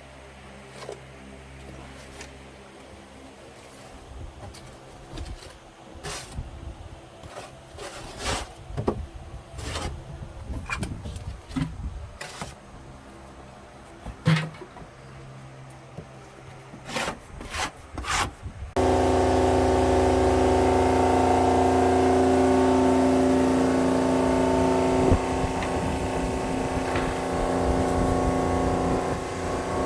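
Scattered light knocks and scraping of hand work. About two-thirds of the way in, a loud, steady machine drone cuts in abruptly and runs on evenly.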